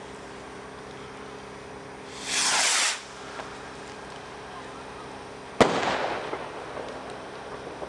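A firework rocket whooshes up with a short hiss, then about three seconds later a single sharp bang echoes and dies away.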